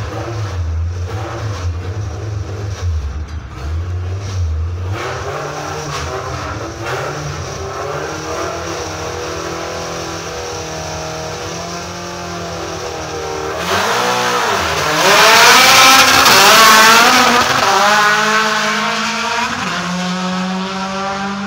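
A compact race car's engine idling with throttle blips at the start line, then about two-thirds of the way through launching hard at full throttle, its pitch climbing through the gears. The sound then eases as the car runs off down the strip.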